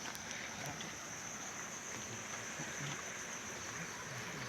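Steady outdoor night ambience: a continuous high-pitched insect drone over a background hiss, with a few faint low murmurs now and then.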